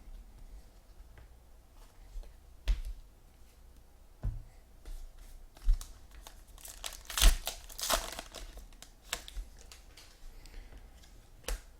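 A trading-card pack wrapper being torn open and crinkled by hand, with a few sharp snaps and taps. The longest stretch of tearing comes about seven seconds in.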